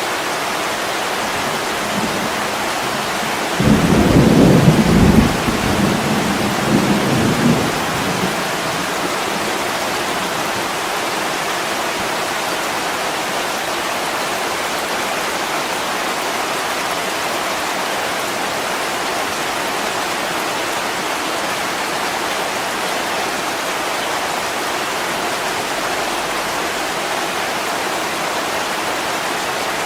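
Heavy rain falling steadily on a window, with a loud low rumble of thunder breaking in about three and a half seconds in and rolling away over about four seconds.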